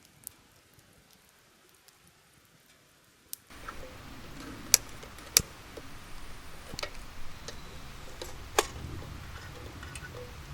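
Wood campfire crackling: a low steady hiss with scattered sharp pops, starting abruptly about three and a half seconds in after near silence.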